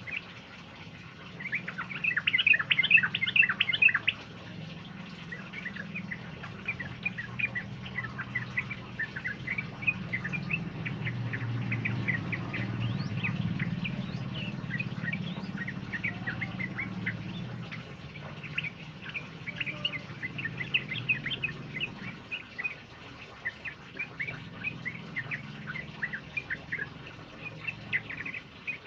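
Bulbuls chattering in a flock, many short overlapping chirps, with a dense loud outburst about two seconds in. A low steady rumble runs underneath.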